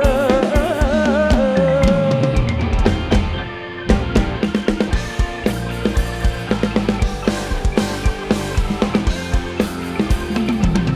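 Live band music: a singer's held note with wide vibrato ends about two seconds in, then the drum kit and bass carry an instrumental passage with a steady beat.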